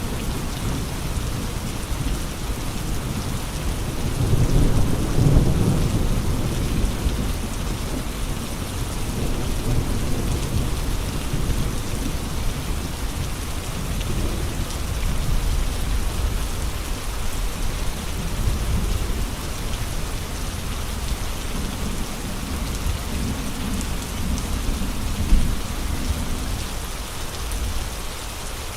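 Steady heavy rain with gusting wind, a dense hiss across the whole range. Low rumbling swells rise and fade a few seconds in and again near the end.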